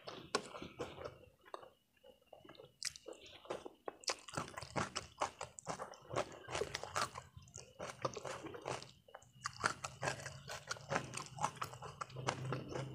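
Close-miked chewing of spicy stir-fried instant noodles: wet mouth smacks and quick sharp clicks, with a wooden fork working the noodles on the plate.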